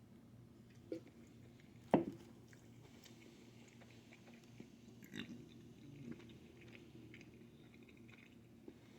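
A person chewing pizza close to the microphone, with soft mouth noises, and a sharp knock about two seconds in.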